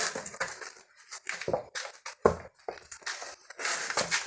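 Irregular knocks, scrapes and light clinks as a car tyre is handled and turned over by hand while it is made into a trough.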